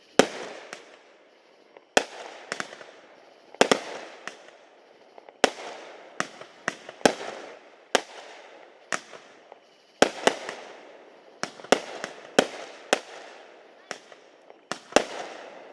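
Fireworks exploding in a rapid, uneven string of sharp bangs, about one or two a second, each followed by a short echoing tail.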